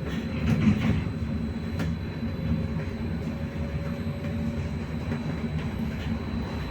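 Cabin noise of a Belkommunmash BKM-43300D trolleybus in motion: a steady low rumble of wheels and body, with a faint, steady electric whine on top.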